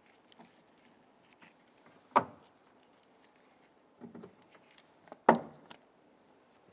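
Plastic door-panel retaining clips being snapped back into a door trim panel: two sharp snaps about three seconds apart, with fainter handling clicks between them.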